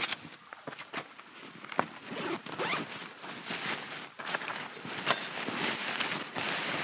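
Camping gear being handled: a sharp click and a few knocks, then a run of rustling, rasping sweeps.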